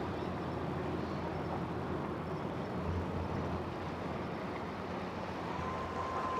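Steady low rumble of distant engines over an even background of outdoor noise. A faint high tone comes in near the end.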